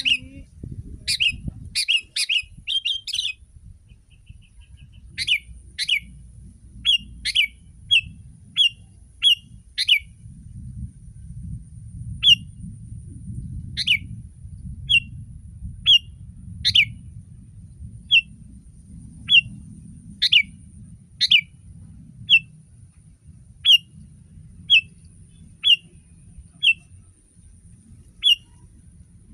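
Sooty-headed bulbul giving short, sharp chirps, a quick flurry in the first few seconds and then single calls about once a second. A faint low rumble runs underneath.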